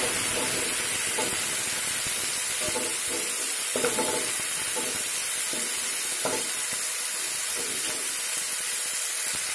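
Diced potatoes and a cumin-ginger-turmeric paste sizzling in hot mustard oil in a nonstick pan as the spices are fried down. A steady sizzle, with a few scraping strokes of a wooden spatula stirring the pan, around four and six seconds in.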